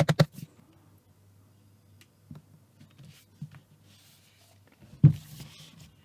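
Hands handling a laptop and its packaging: a quick run of clicks at the start, a few light taps, brief rustling, and a single knock about five seconds in, the loudest sound.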